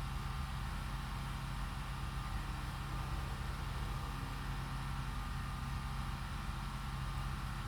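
A steady, unchanging low mechanical hum, like a distant engine or machine running.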